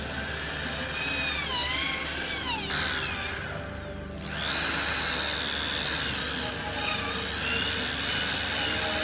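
Electric power tool running, its whine sliding down and back up in pitch several times as the load changes. It winds down briefly about three seconds in and speeds back up about a second later.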